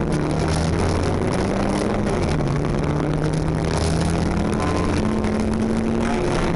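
Folkrace car's engine heard from inside the cabin, running hard under race load. Its note steps up and down a couple of times, over steady tyre and road noise.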